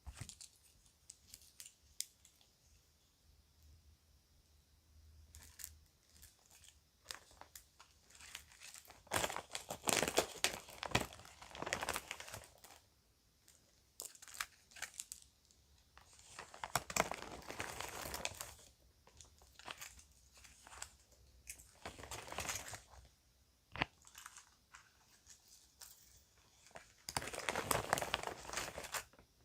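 Plastic bag crinkling and tearing in several separate bursts of rustling, with small sharp clicks between them.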